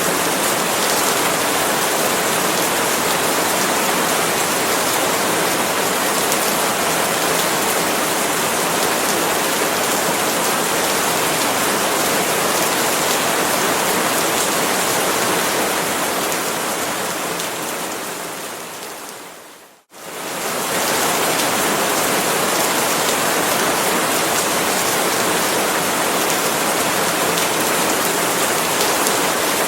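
Steady rain falling on palm leaves. About two-thirds of the way through it fades out to a moment of silence, then comes straight back at full level.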